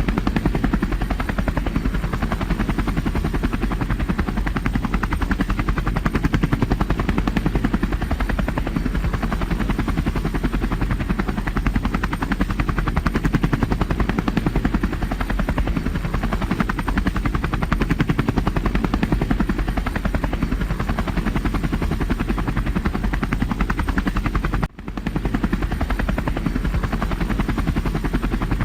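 Tour helicopter's rotor and turbine running loud and steady at take-off, with a rapid, even chop from the rotor blades. The sound breaks off briefly about 25 seconds in, then resumes.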